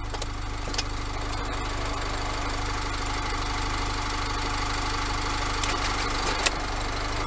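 Car engine idling steadily, with a few light clicks near the start and one sharp click about six and a half seconds in.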